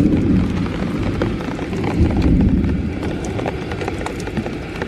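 Rolling thunder over heavy rain, a deep uneven rumble that swells twice, with scattered sharp drips and splashes.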